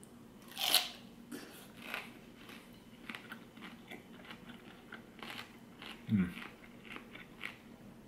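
A bite into a crisp, ripe fresh pineapple spear about a second in, then crunchy, juicy chewing with many short crackles. A brief low falling hum comes about six seconds in.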